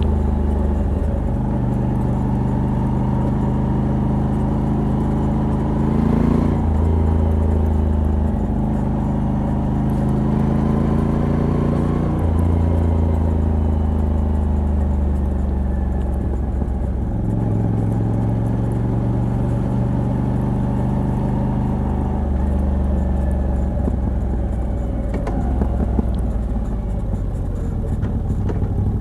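Moto Guzzi V85TT's air-cooled transverse V-twin, with a de-catted stock exhaust, pulling under way. Its pitch rises and then drops sharply about six and twelve seconds in, as at gear changes, then falls gradually and settles into a steadier run.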